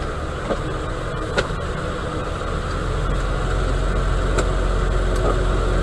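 Semi truck's diesel engine idling with a steady low rumble that grows a little louder about halfway through, with a few faint clicks.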